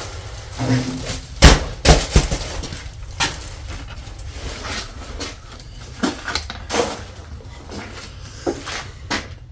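Footsteps and a scattering of knocks and clatters as things are bumped while walking through a cluttered shop; the loudest knocks come about one and a half and two seconds in, with lighter ones after.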